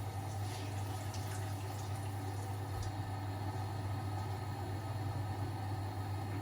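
Laundry machines running: a steady low hum under a light hiss, with a few faint clicks in the first two seconds.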